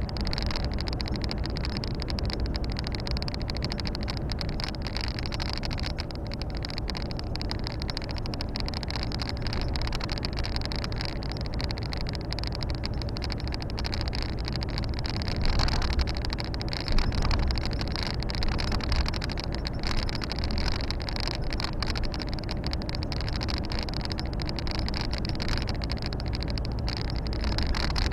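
Volvo FH 460 truck driving: the steady running of its 13-litre six-cylinder diesel mixed with road and tyre noise, heard from inside the cab, with a couple of brief louder bumps about halfway through.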